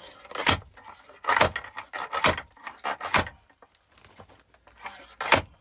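Axe splitting oak firewood into kindling: five sharp wooden chops, about one a second for the first few seconds, then a last one near the end.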